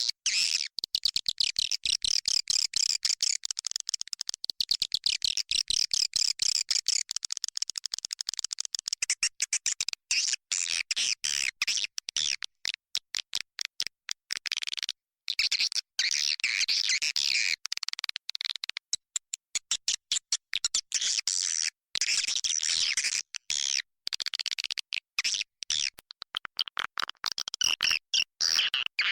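Dense, continuous twittering and chirping of many swiftlets, high-pitched and choppy. This is a recorded swiftlet lure call, the 'roosting' call played in swiftlet houses to draw edible-nest swiftlets in to roost.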